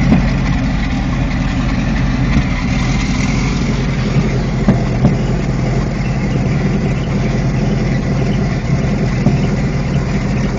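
Helicopter engine and rotor noise, a loud steady drone, with a few brief knocks.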